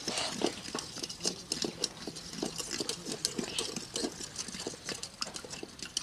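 Homemade slime mixture of glue, detergent-and-salt water and red water colour being stirred in a container, giving irregular small sticky clicks.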